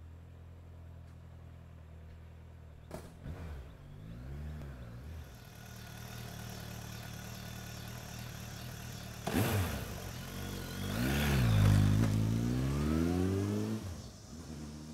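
Suzuki Bandit 1200's inline-four motorcycle engine running under way. It blips up briefly a few seconds in, gives a sharp burst a little after nine seconds, then revs hard with rising pitch before dropping off near the end.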